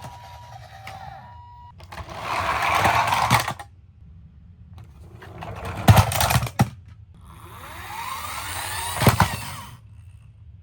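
Toy vehicles rolling down a slope three times, their small plastic wheels giving a buzzing rattle of about two seconds each run, with sharp clacks. A toy's electronic siren tone stops about a second and a half in.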